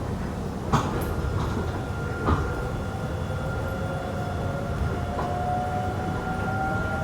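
Airport people-mover train running, heard from inside the car: a steady low rumble with two short knocks in the first few seconds and a steady drive whine. A second whine rises gently in pitch over the last couple of seconds.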